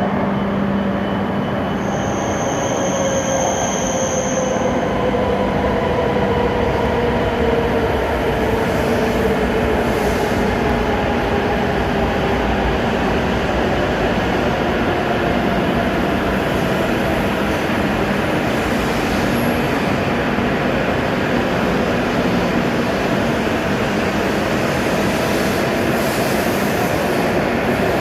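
Hokuriku Shinkansen E7/W7-series trains running past each other: a loud, steady rush of wheel and air noise, with a motor whine that slowly falls in pitch over the first ten seconds or so.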